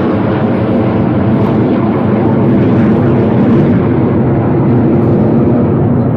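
Military aircraft flying low overhead: loud, steady engine noise that swells a little midway and holds.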